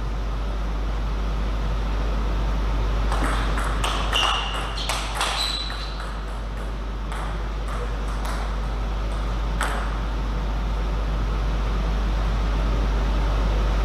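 Table tennis ball clicking off paddles and table, a string of sharp, irregularly spaced clicks, some with a short ringing ping, from about three seconds in until about ten seconds in. A steady low hum runs underneath.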